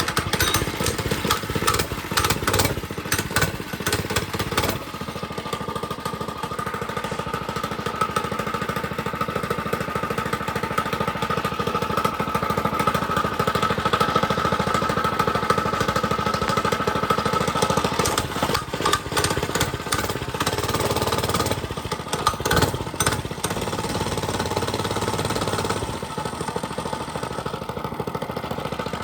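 Mini bike's small engine running after being started. It runs steadily, with rough, uneven knocking noise over it in the first few seconds and again a little past the middle.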